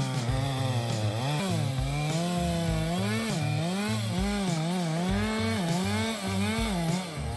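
Stihl MS 462 two-stroke chainsaw cutting into wood. Its engine pitch repeatedly dips under load and climbs back, and it drops away near the end.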